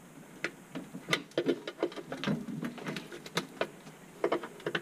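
Irregular small clicks, taps and scrapes of hand tools and metal parts being handled, several a second.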